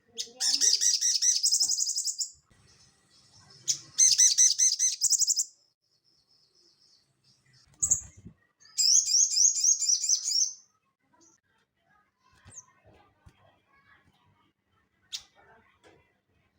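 Sogon songbird singing: three bursts of fast, high, chattering trills, each about two seconds long, with a short call and a low knock in between, then quiet.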